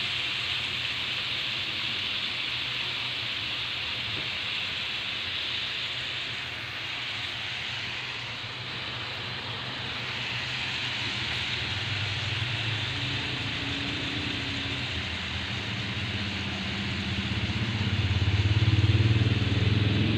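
Beef pieces in marinade frying in a nonstick pan, a steady sizzle. A low engine drone builds in the background over the last several seconds and is the loudest sound near the end.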